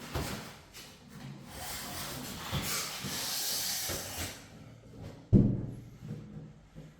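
Handling and hanging a wooden interior door: a hissing, rustling scrape with a few light knocks, then one heavy thump about five seconds in.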